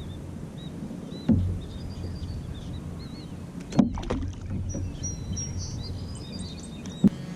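Water sloshing against the hull of an Old Town Topwater PDL kayak, with three sharp knocks on the hull about a second in, near the middle and near the end.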